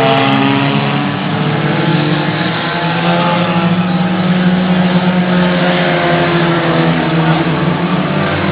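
Race car engines running, a steady loud drone with several slowly wavering pitches layered together.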